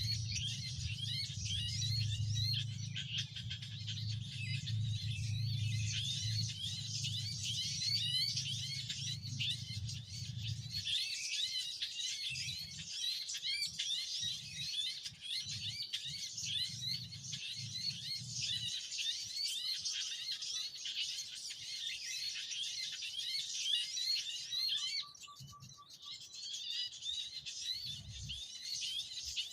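A noisy chorus of small birds chirping: dense, rapid, high-pitched notes without a break, partly a bird-call lure recording played for trapping. A low rumble sits under it through the first third, then comes only in short bursts.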